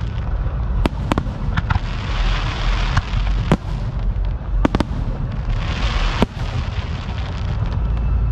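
Fireworks going off: a string of sharp bangs at irregular intervals, with stretches of crackling hiss between them and a steady low rumble underneath.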